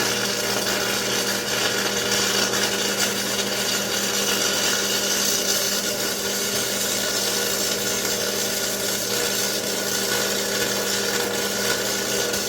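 Stick (arc) welder set to 75 amps welding without a break: a steady crackling, hissing arc over the welder's steady electrical hum.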